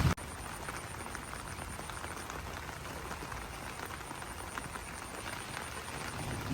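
Light rain dripping and pattering on banana leaves, many small separate drop taps over a soft hiss; heavier rain cuts off abruptly just at the start. A faint, rapid, high-pitched pulsing call runs behind it for most of the time.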